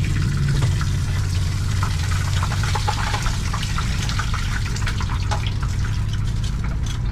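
Food frying in a food-truck kitchen, sizzling with a dense spatter of small crackles over a steady low hum.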